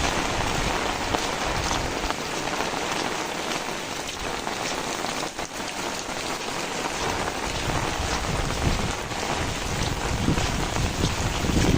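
Heavy rain falling steadily, with a dense patter of drops on surfaces and a low gusty rumble of wind building near the end.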